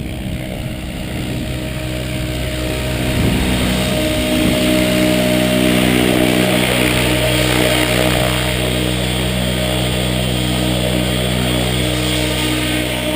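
Radio-controlled model airplane's motor and propeller running steadily, with wind noise. It grows louder about three to four seconds in and holds.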